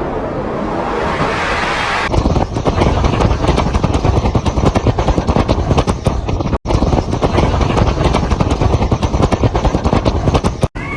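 Strong gusting wind, rushing at first, then from about two seconds in heavy, rapidly fluctuating wind buffeting on the microphone. It cuts out for an instant twice.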